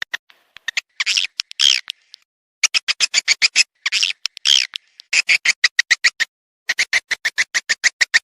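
Swiftlet lure call played back: fast trains of sharp chirping clicks, about ten a second, broken by longer buzzy twittering calls about a second in and again around four seconds in.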